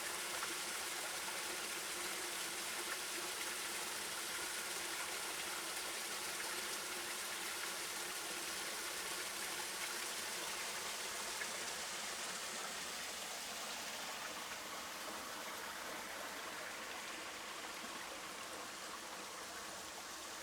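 Steady rushing of flowing river water, with no distinct events; the hiss softens a little in the second half.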